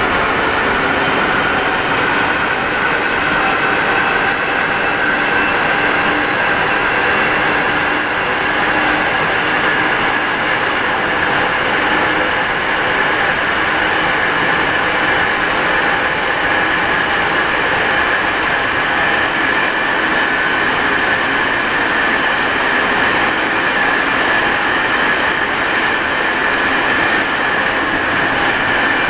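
Alstom NS-74 rubber-tyred metro train running along the line at speed: a steady rolling roar with a high whine that rises slowly in pitch.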